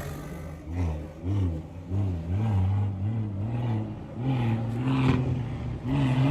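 Car engine being revved in repeated quick blips, the pitch climbing and falling again and again.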